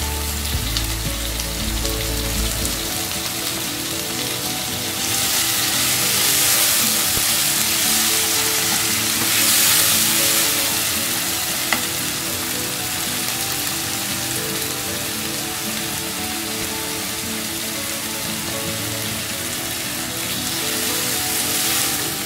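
Onions and freshly added tomato pieces sizzling in hot oil in a nonstick wok while being stirred with a wooden spatula; the sizzle grows louder a few times as the pan is stirred. One sharp tap about halfway through.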